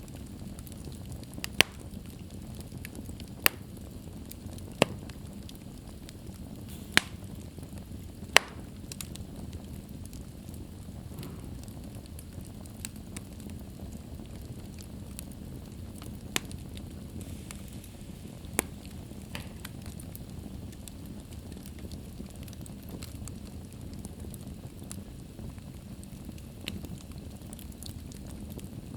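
Wood fire burning in a fireplace: a steady low rumble of flames with sharp crackling pops. The loudest pops come about seven times, most of them in the first third, with smaller crackles scattered between.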